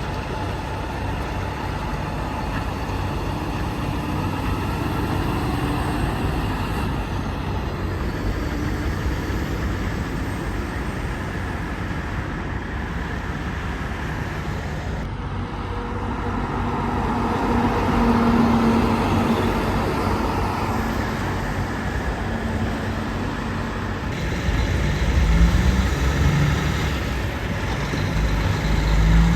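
Road traffic with trucks and cars driving past, engine and tyre noise rising and falling as vehicles go by. A deep heavy-engine rumble swells about three-quarters of the way through.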